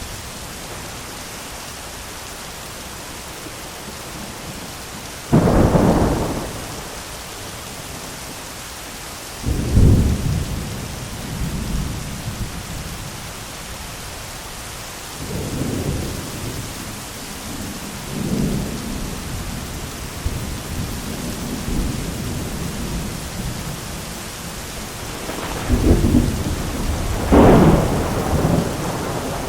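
Thunderstorm: steady rain with thunder over it. A sharp thunderclap about five seconds in and another near ten seconds are followed by softer rolling rumbles, then two loud close claps near the end.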